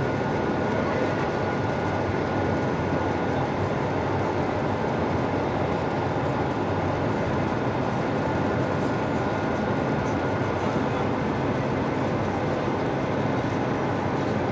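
Steady airliner cabin noise inside an Airbus A220-300: an even rush of engine and airflow noise at a constant level, with a faint steady high tone.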